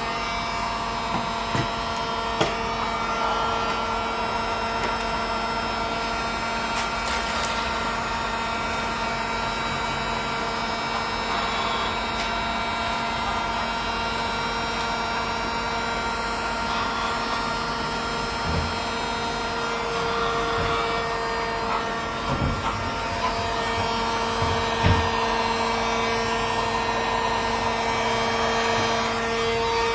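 Hot-air plastic welding gun's blower running steadily, with a few light knocks, while a crack in a plastic water tank is welded.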